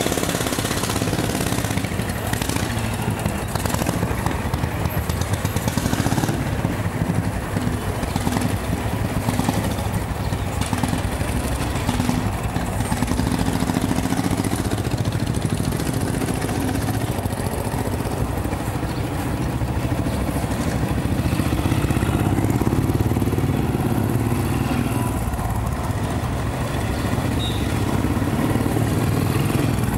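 Royal Enfield Bullet motorcycle's single-cylinder engine running continuously as the bike is ridden, its pitch drifting up and down, over a steady rush of noise.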